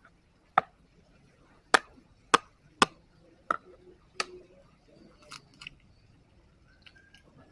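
A series of sharp, short knocks: six loud ones at uneven spacing over about four seconds, then two fainter ones.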